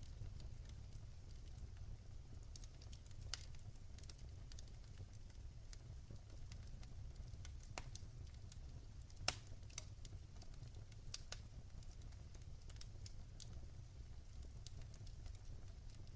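Wood fire crackling in a fireplace: irregular sharp pops and snaps over a low steady rumble of the flames, with the loudest pop about nine seconds in.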